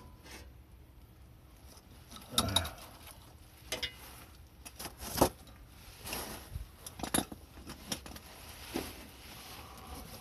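Scattered clinks and knocks of metal parts and tools being handled during muffler work, a few seconds apart, the sharpest a knock about five seconds in.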